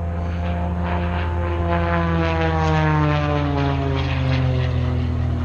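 Propeller engine of an aerobatic display plane, its note falling steadily in pitch as the plane flies a tail slide, with a steady low hum underneath.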